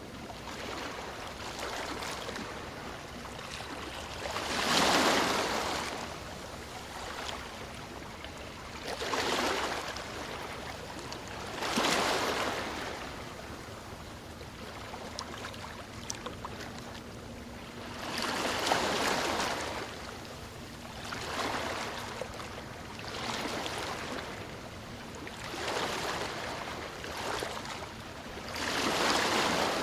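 Ocean waves breaking and washing onto the shore over a steady hiss of surf. A louder surge comes every few seconds, about eight in all, each swelling and fading over a second or two.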